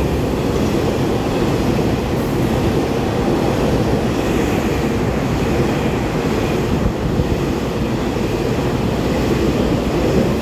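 Twelve-car EMU3000 electric multiple unit passing through a station platform at speed: a loud, steady, deep rumble of wheels on the rails and rushing air.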